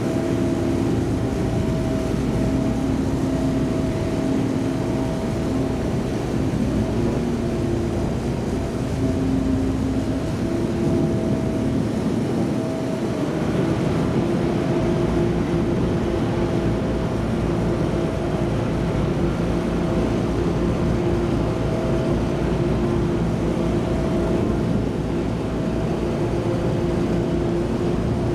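Engines of the high-speed passenger ship Sunliner 2 running under way, a steady drone of several tones whose pitch wavers a little in the first ten seconds, over a constant rush of wind and water.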